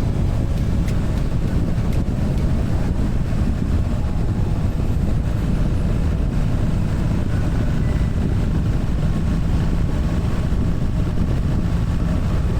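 BMW R1300 GS boxer-twin engine running at a steady cruise, with wind rushing past the microphone.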